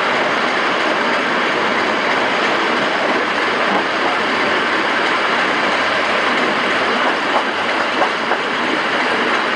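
Regional electric train rolling out of the station, heard from its open window: a steady rush of wheel and running noise, with a few sharp clicks of the wheels on the track about seven to eight seconds in.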